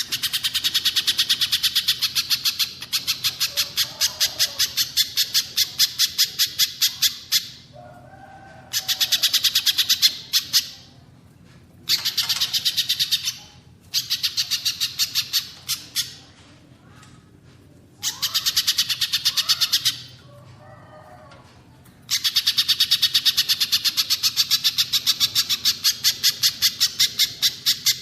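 Small songbird calling, recorded for song-training: rapid trains of sharp, high chipping notes at about five a second, in bouts of one and a half to seven seconds with short pauses between. Softer, lower calls come in some of the pauses.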